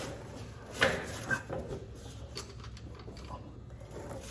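Tools and parts knocking during hand repair work on machinery: a sharp knock about a second in, a lighter one just after, then quieter handling noises.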